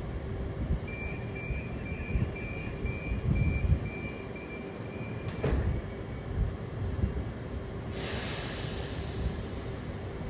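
Oscar H-set electric train at the platform, rumbling low throughout, with a run of short door-closing warning beeps at about two and a half a second. A sharp clunk follows as the doors shut about five and a half seconds in, then a loud hiss of air about eight seconds in.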